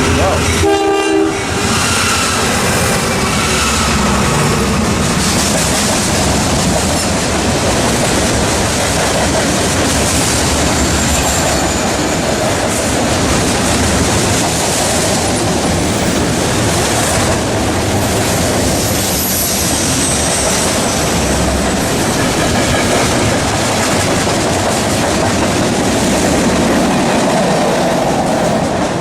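A train passing, its horn sounding briefly about a second in, followed by the steady noise of wheels rolling over the rails.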